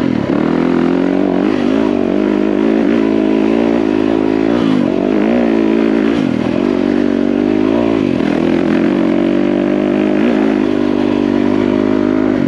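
Yamaha WR450F single-cylinder four-stroke dirt bike engine labouring up a steep trail, its pitch rising and dipping again and again as the throttle is worked, over wind and rumble.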